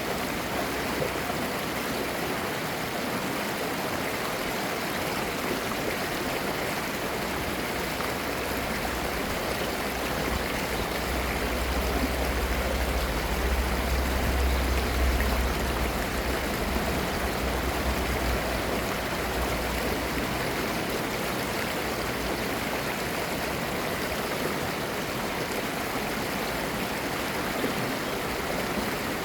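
A clear mountain valley stream flowing with a steady, babbling rush of water. A low rumble swells for several seconds in the middle.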